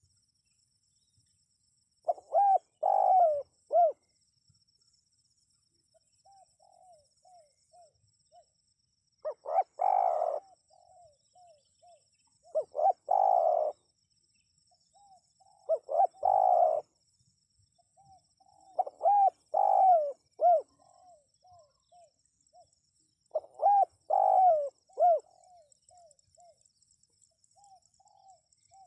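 Spotted dove cooing: loud phrases of several low coo notes, one every three to four seconds, with fainter, softer coos in between. A faint, continuous high-pitched trill runs underneath.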